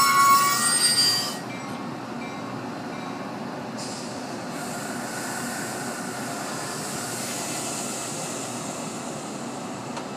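Metra bilevel commuter train squealing loudly on its brakes as it comes to a stop, the squeal cutting off about a second in. After that the stopped train runs steadily, and a high hiss of air joins in a few seconds later.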